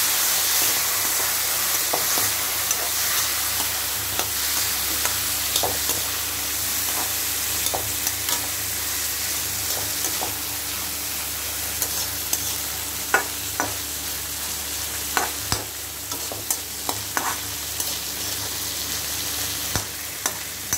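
Chickpeas, onion and chillies sizzling in hot oil in a metal kadai while a perforated metal spatula stirs them, scraping and clicking against the pan. The sizzle eases slightly as it goes on, and the clicks come more often in the second half.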